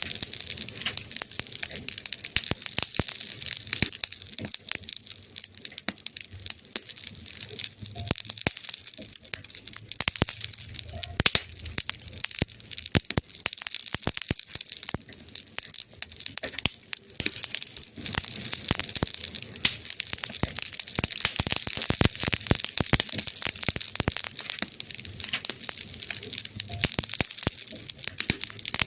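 Wood fire crackling: dense, irregular snaps and pops over a steady hiss.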